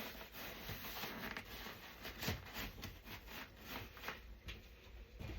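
Faint rustling of fabric and light clicks of plastic parts being handled while a playard is assembled, with a sharper click about two seconds in.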